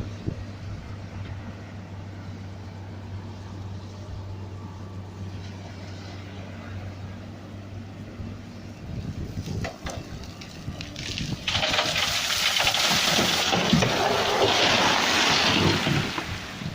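Tronton dump truck's diesel engine running with a steady low hum, joined about eleven seconds in by a loud rushing, splashing-like noise that lasts some four seconds before dropping away.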